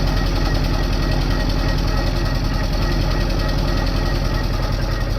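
TOS milling machine running with the spindle turning slowly, a solid carbide cutter grinding down a snapped exhaust stud. A steady mechanical hum with a fast, even pulsing.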